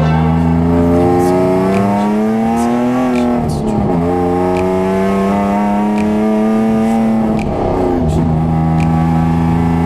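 BMW E36 320i's naturally aspirated 2.0-litre straight-six heard from inside the cabin on track, revs climbing for about three seconds, then dipping briefly and holding steady, with a second short dip about three-quarters of the way through.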